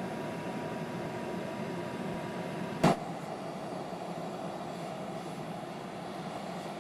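Steady rushing noise of a backyard aluminium-melting furnace running hot with its air blower on. A single sharp click comes about three seconds in, and a faint steady whine stops with it.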